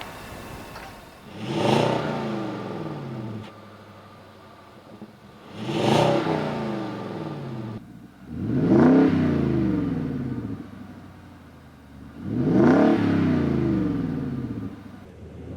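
Nissan Titan's 5.6-litre V8 breathing through a Flowmaster FlowFX stainless exhaust, revved four times. Each rev climbs quickly and then falls back to idle over a couple of seconds.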